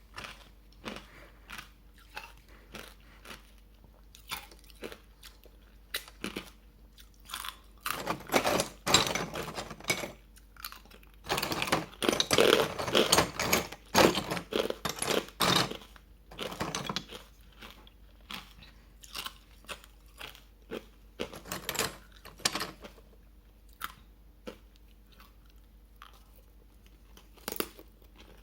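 Hard ice being bitten and chewed close to the microphone: scattered sharp cracks, with two long runs of dense crunching, the loudest about a third and halfway through.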